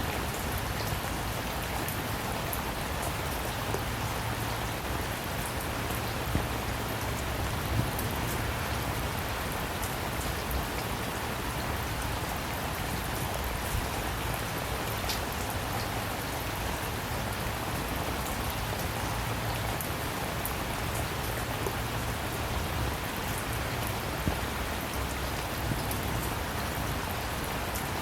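Steady rain falling on a surface: an even hiss with scattered sharp ticks of single drops striking.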